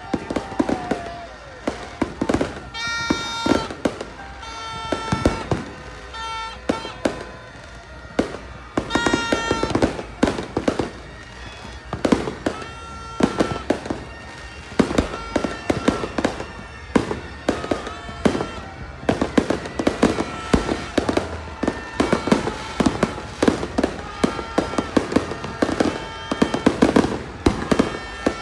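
Fireworks exploding in dense, irregular bangs and crackles, with music playing behind them.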